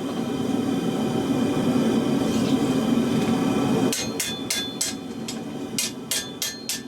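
A forge running with a steady rushing noise, then about four seconds in a hammer starts striking the hot truck leaf-spring steel on the anvil: a quick run of ringing blows, about three to four a second, straightening the katana's tang.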